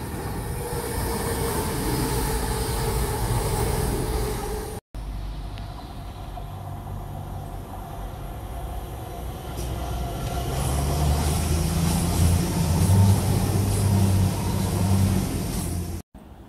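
A CrossCountry Voyager diesel multiple unit running through at speed, its underfloor engines and wheels on the rails. After a break, a second diesel passenger train approaches and passes, its engine and rail noise growing steadily louder.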